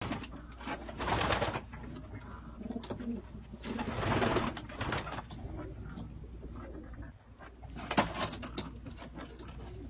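Domestic pigeons cooing in an enclosed loft, with two louder rustling bursts and a few sharp clicks about eight seconds in.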